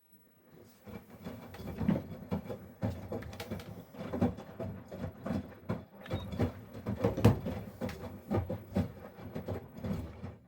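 Miele Professional PW 6065 washing machine in its main wash. The drum turns a wet load of stuffed toys, giving a string of uneven soft thuds and knocks.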